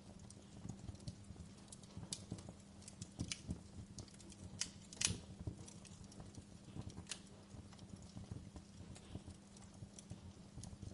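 Wood fire crackling in a fireplace: irregular sharp pops and snaps over a faint steady hiss, with the loudest pop a little after five seconds in.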